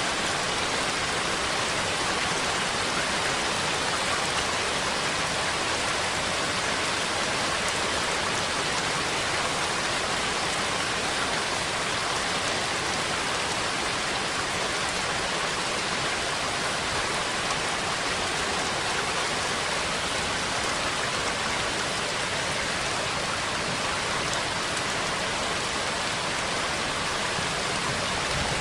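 Steady, even rain with no change in strength.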